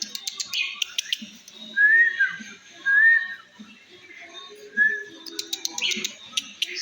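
Starlings calling: three loud, clear whistled notes in the middle, set among rapid sharp clicks and harsh chattering at the start and again near the end.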